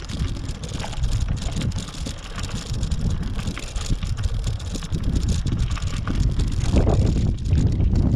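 Wind buffeting the camera's microphone: a loud, gusty low rumble that swells and grows stronger near the end.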